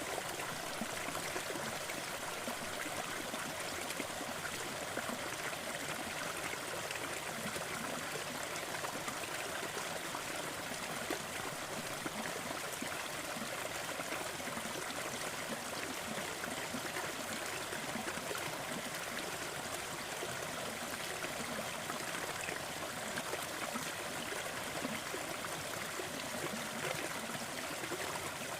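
Steady, even rushing noise from a fireplace-and-noise sleep soundscape, with no change or break throughout.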